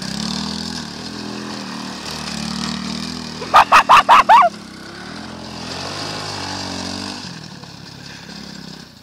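Small quad bike engine running, its pitch rising and falling slightly as it is ridden. About three and a half seconds in, a loud burst of about five quick voice sounds cuts in for roughly a second.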